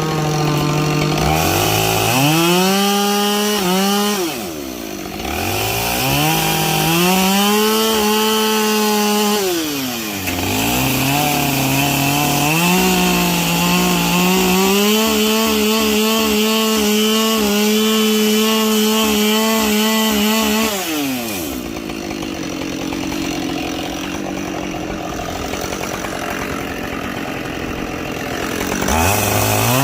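Two-stroke chainsaw bucking logs: it revs up from idle to full throttle and cuts three times, the last cut the longest at about ten seconds, dropping back to idle between cuts. It idles through most of the last third, then revs up again at the very end.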